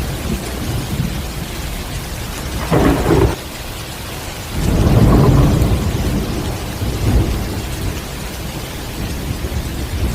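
Heavy rain falling steadily during a thunderstorm, with thunder: a short rumble about three seconds in that cuts off suddenly, then a longer, louder roll of thunder about five seconds in.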